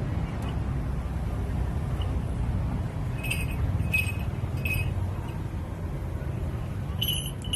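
Small metal falconry bell ringing in three short jingles about two-thirds of a second apart, then a quicker flurry of jingles near the end, over a steady low rumble.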